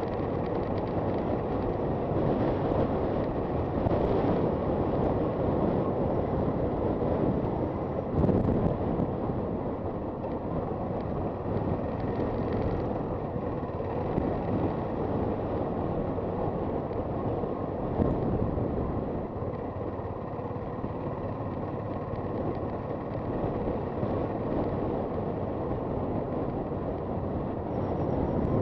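Honda FT400 motorcycle under way, its engine running beneath steady wind and road noise buffeting the microphone. There is a brief louder gust or bump about eight seconds in, and another near eighteen seconds.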